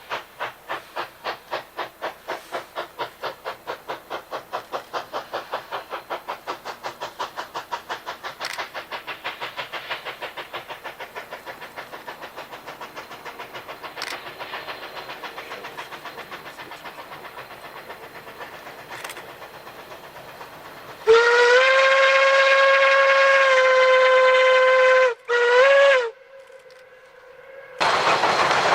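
Narrow-gauge K-27 Mikado steam locomotive No. 463 working a train, its exhaust chuffing in a steady even beat that slowly fades. About two-thirds of the way through, its steam whistle sounds one long blast and then a short one.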